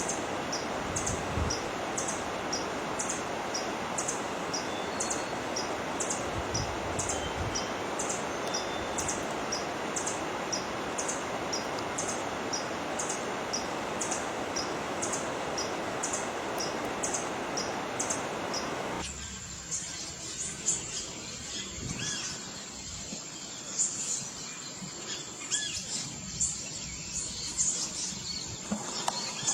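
Birds chirping in the wild: a high chirp repeats regularly, about one and a half times a second, over a steady rushing background. About two-thirds of the way through, the rushing stops, and a steady high whine with scattered chirps takes over.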